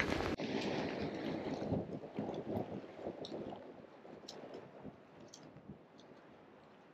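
Water sloshing and gurgling, fading away over several seconds, with a few faint clicks.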